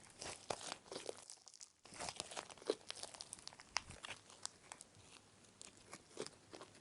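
Slime being handled and squeezed, making faint, irregular sticky crackles and small pops.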